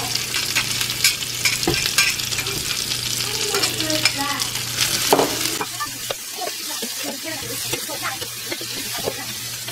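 Onions and garlic sizzling in hot fat on a cast-iron griddle, with a slotted metal spatula scraping and clicking against the pan as they are stirred. The sizzle eases a little after about six seconds while the stirring goes on.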